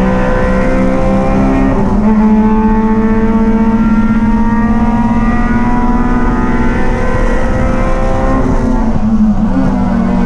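Race car engine running hard at high revs, its pitch dipping and recovering briefly about two seconds in and again near nine seconds.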